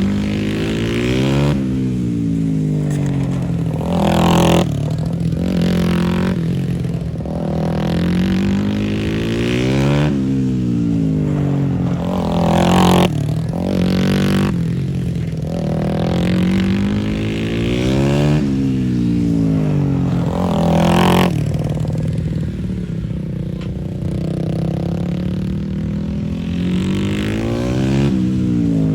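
Small racing motorcycles going past one after another on a track, each engine's pitch rising as it approaches and falling as it goes away, several passes every few seconds. A steady low engine hum runs underneath.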